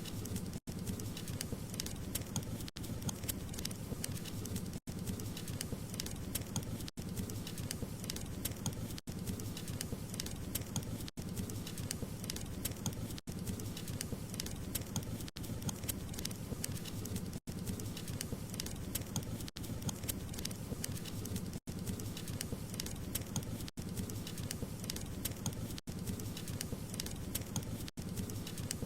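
Wood fire crackling: dense, quick crackles and pops over a steady low rush, broken by a very short gap about every two seconds.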